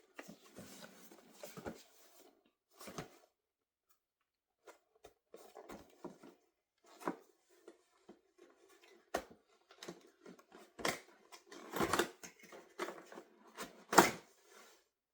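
Irregular rustling and clicking of a doll's box and plastic packaging being handled as the doll is taken out, with a sharp click near the end.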